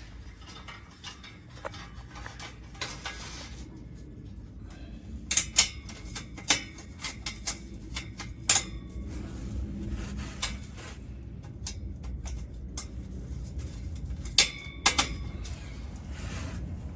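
Stainless steel exhaust pipe and its mounting hardware being handled, giving scattered sharp metallic clinks and clanks over a steady low background noise. The loudest clanks come in a cluster a third of the way in and again near the end.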